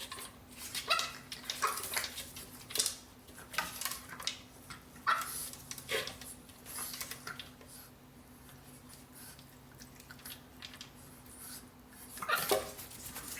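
Puppy eating kibble from a slow-feed bowl, nosing the food around the ridges with irregular clinks, scrapes and crunches. The sounds come thickest in the first half and again near the end.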